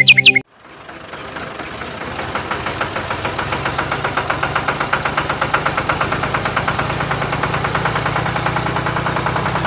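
An engine starting up and running at idle with a steady, rapid pulsing beat, growing louder over the first few seconds, then holding level.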